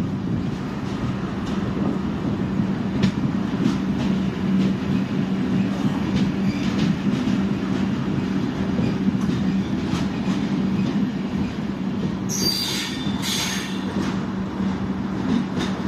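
Express train running slowly into a station, heard from aboard beside its coaches: a steady rumble with a constant low hum and scattered wheel clicks over the rail joints. Near the end come two short, high-pitched hissing bursts.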